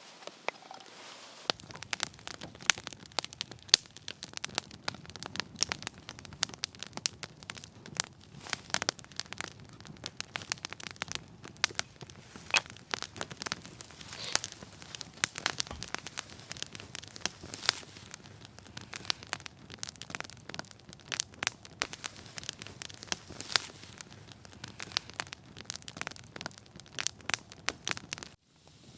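Campfire of split wood crackling, with many irregular sharp pops and snaps over a faint hiss. It cuts off suddenly near the end.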